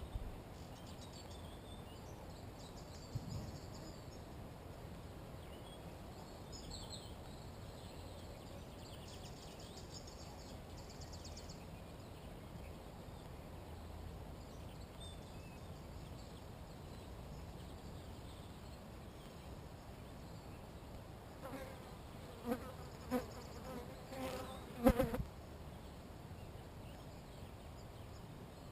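A flying insect buzzing close past the microphone in several short passes over a few seconds near the end, the last one the loudest. Faint distant birdsong trills sound in the first half.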